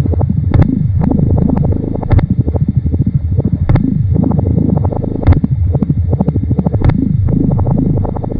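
Experimental electronic tape-music collage: low droning tones sliding up and down in repeated swoops, punctuated by sharp clicks at irregular intervals.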